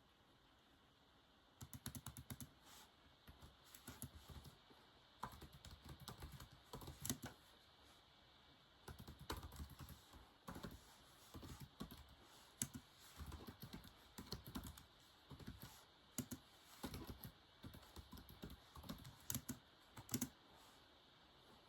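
Soft typing on a keyboard, in quick runs of key clicks broken by short pauses.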